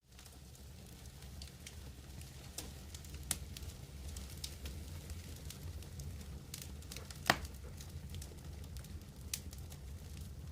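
Wood campfire burning: a steady low rush of flames with scattered crackles and pops, one sharp pop louder than the rest about seven seconds in.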